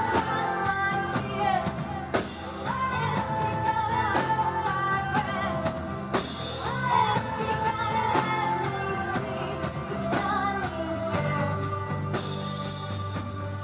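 A live pop-rock band plays with a woman singing long held notes over a steady drum beat.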